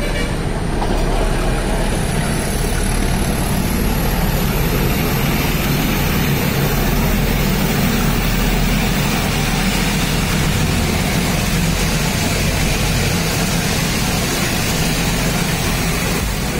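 Steady running noise of the Nilgiri Mountain Railway toy train, a low rumble with a faint high whine that rises slowly over the first several seconds.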